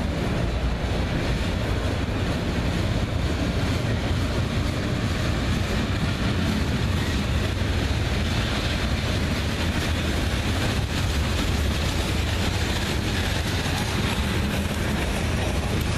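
Freight train cars (autoracks, then tank cars) rolling past on the near track: a steady, low rumble of steel wheels on rail.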